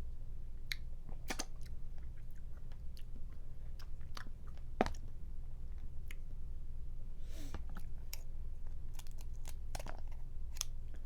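Close-up eating of boiled crawfish: irregular clicks and cracks of claw shell being broken open, with chewing, over a low steady hum.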